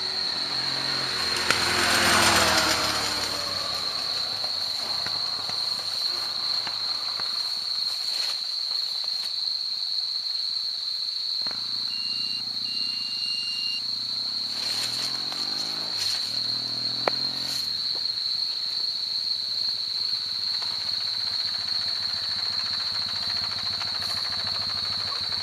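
Steady hiss under a constant high thin tone. About two seconds in, a vehicle passes with a falling pitch. Around the middle, an engine note rises and falls for several seconds.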